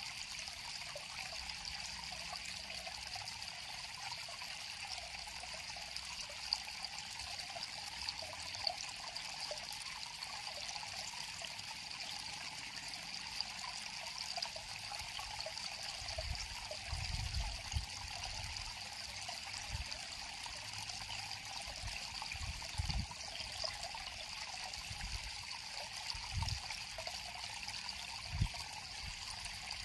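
River water flowing and trickling steadily, with a few short low thumps in the second half.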